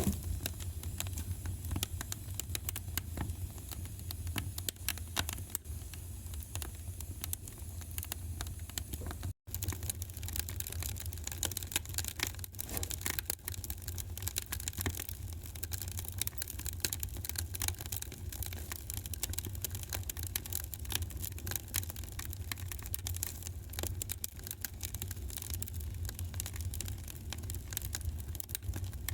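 Wood fire crackling: a dense, irregular run of small pops and snaps over a steady low rumble. The sound cuts out for an instant about nine seconds in.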